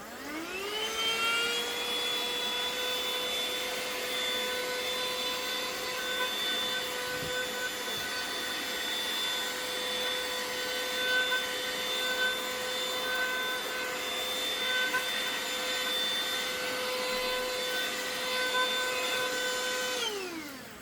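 Vacuum cleaner switched on, its motor whine rising as it spins up, running at a steady pitch, then winding down as it is switched off near the end.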